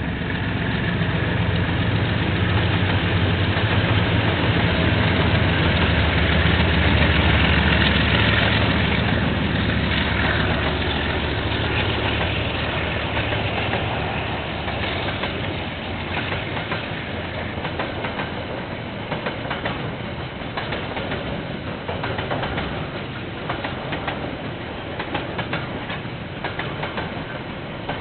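A KiwiRail diesel locomotive passing, its engine drone loudest about seven seconds in and fading by about fourteen seconds, followed by the wagons' wheels clattering over the rail joints with many sharp clicks. Heard through a security camera's microphone, which cuts off the high end.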